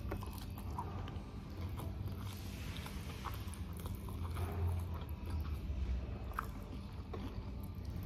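A person chewing and biting food close to the microphone, with scattered soft crunches and wet mouth clicks, over a steady low hum.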